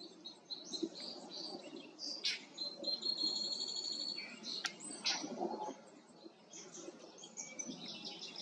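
Several small birds chirping and calling, with a fast trill of rapid high notes lasting about a second and a half a little after the two-second mark, over a low background rumble.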